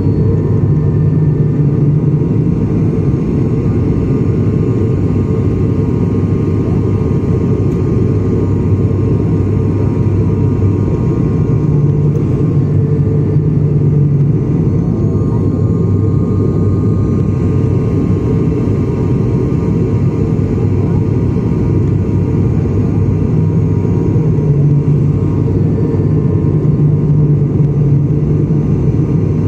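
Aircraft engines running with a loud, steady low drone and a deep hum that swells and eases slightly, plus faint steady higher tones.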